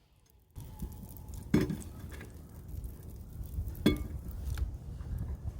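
Two sharp clinks of a utensil against a cast iron skillet, a little over two seconds apart, over wind rumbling on the microphone.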